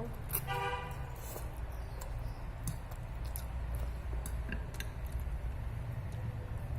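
Instant rendang noodles being chewed and eaten, with scattered small utensil clicks over a steady low hum. There is a brief voice sound about half a second in.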